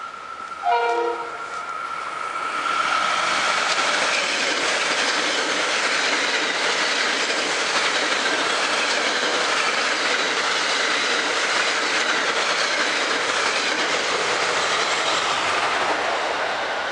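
Metro-North electric commuter train sounding one short horn blast about a second in, then running through the station at speed with a loud, steady rush of wheels on rail that fades near the end as the cars go by.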